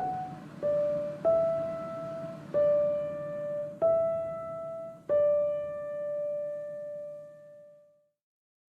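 Background piano music: a slow phrase of single notes, each struck and then fading. It ends on a long note that dies away about eight seconds in.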